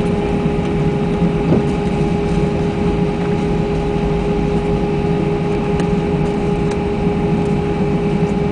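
Steady cabin noise inside an Airbus A320 on the ground after landing: engine and airflow noise running evenly at idle, with a constant droning hum.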